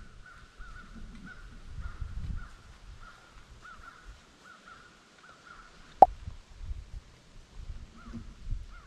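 Birds calling: a continuous run of short, wavering high calls, with a low rumble underneath. A single sharp click about six seconds in.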